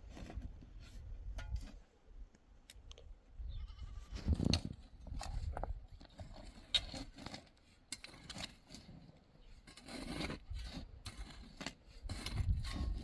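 Goats bleating several times, over a low rumble and scattered clicks.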